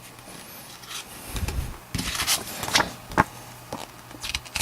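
Trading cards being handled: short scraping rustles and light clicks of card stock sliding against card stock as cards from a freshly opened pack are shifted and turned over.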